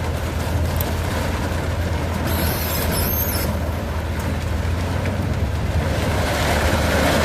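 Engine of a 1992 Dodge B250 van running, heard from inside the cab as a steady low drone. The engine is freshly tuned with new spark plugs and a new PCV valve.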